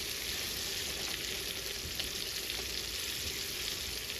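Floured chicken pieces deep-frying in hot oil: a steady sizzle with scattered small crackles.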